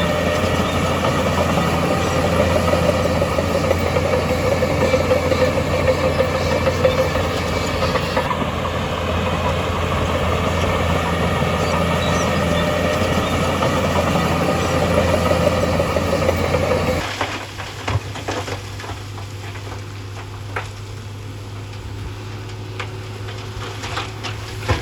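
Heavy construction machine's diesel engine running steadily. About two-thirds of the way through the sound drops away abruptly, leaving quieter scattered knocks and clicks.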